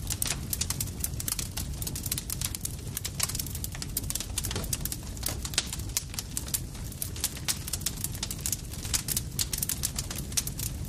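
Campfire crackling and popping: many sharp, irregular snaps over a steady low rumble of burning wood.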